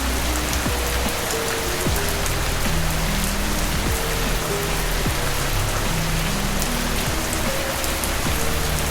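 Steady rain hissing, with scattered drops ticking, over soft, slow background music of low held notes.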